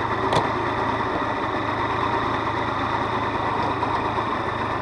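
An engine idling steadily, with a single short click about half a second in.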